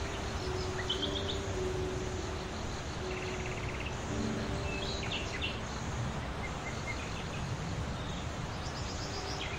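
Small birds chirping sporadically with short high calls and one brief rapid trill, over a steady low rumble of background noise.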